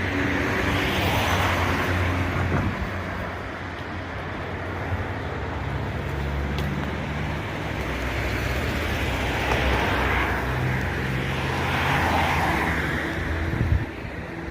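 A motor vehicle's engine running, its low hum shifting in pitch, under a rushing noise that swells and fades several times.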